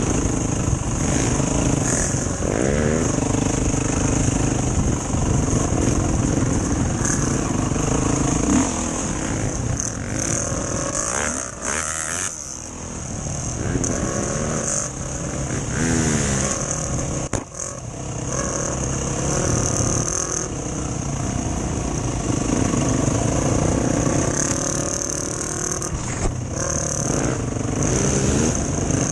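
Enduro motorcycle engine running under way, its pitch rising and falling again and again as the rider works the throttle.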